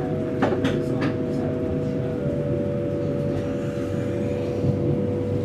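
Inside a high-speed EMU passenger train running: a steady carriage rumble with a constant hum of two tones, the upper one stepping slightly lower about two seconds in. A few sharp clicks come in the first second.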